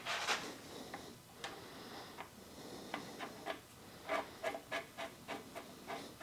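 Light clicks and taps from hydraulic fittings being handled and tried on a valve body. A few come in the first half, then a quicker run of about three a second near the end.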